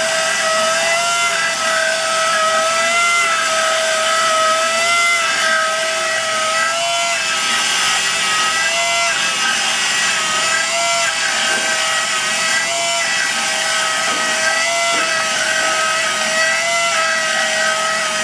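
A machine running with a loud, steady whine whose pitch dips slightly about every two seconds.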